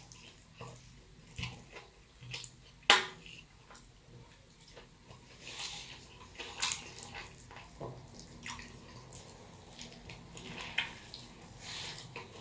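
A person chewing a mouthful of burrito close to the microphone: irregular wet smacking and clicking mouth sounds, with one sharp, loud click about three seconds in.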